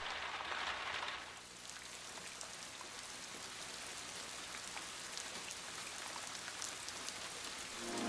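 Steady rain falling, with scattered drops ticking on a surface. It is a little louder in the first second, then settles to an even patter.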